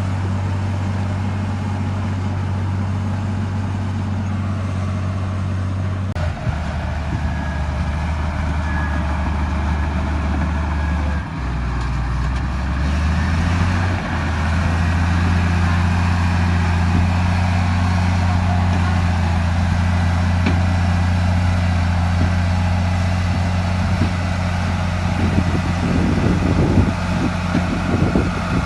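Heavy diesel engine of earthmoving equipment running steadily. Its pitch drops about six seconds in and climbs back up between about eleven and fourteen seconds in. Irregular clanking and knocking join it near the end.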